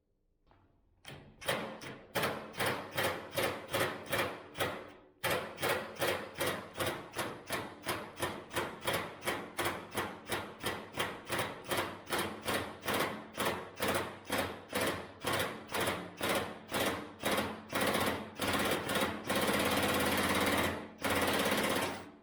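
Repeated hammer blows on metal, about two to three a second, each ringing briefly, in a long steady run while working at seized screws on the truck hood; near the end the blows give way to about two seconds of steady harsh noise.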